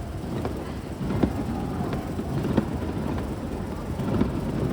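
Fireworks exploding: a continuous low rumble of booms and crackles, with sharper bangs about a second in and again about two and a half seconds in.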